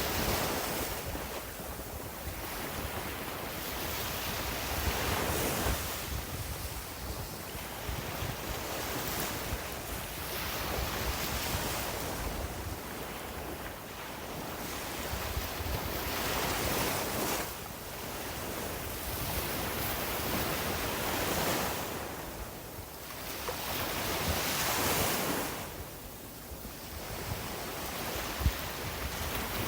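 Sea waves breaking and washing up the beach, swelling and fading every few seconds, with wind rumbling on the microphone. A single short thump near the end.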